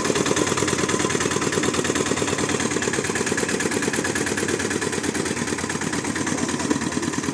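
Small 7.5 hp diesel engine of a homemade mini tractor running steadily, with a rapid, even beat of firing pulses.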